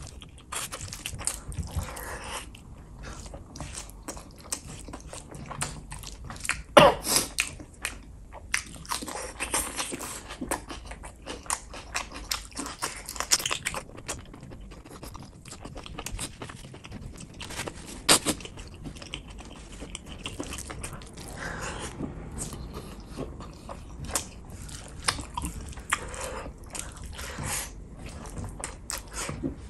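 Close-miked chewing and mouth smacking of rice and gravy eaten by hand, with irregular wet clicks. A couple of sharper, louder smacks stand out.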